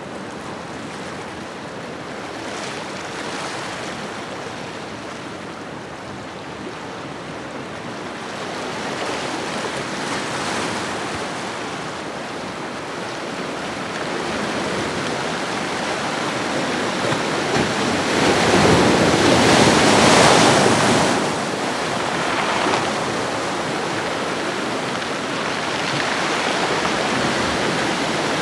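Ocean waves washing onto a shore: a steady wash of surf that swells and falls back, with the largest wave breaking about two-thirds of the way through.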